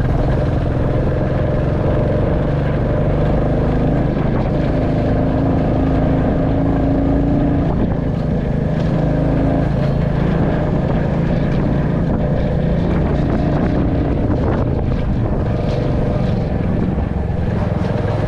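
Royal Enfield Classic 350's single-cylinder engine running steadily under way, its pitch shifting only a little.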